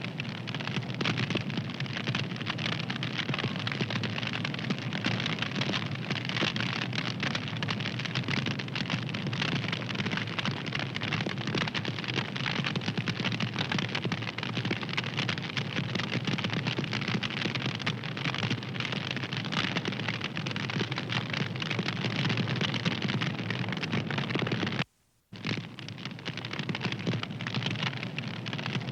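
Wood fire crackling steadily, a dense run of small pops and snaps. It breaks off into a brief moment of silence about 25 seconds in, then carries on.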